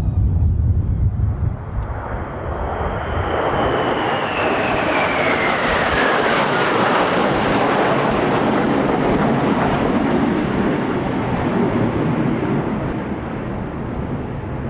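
Kawasaki T-4 jet of the Blue Impulse team flying past, its roar swelling in the first few seconds and then holding, with a whine that falls in pitch as it passes. Wind buffets the microphone at the start.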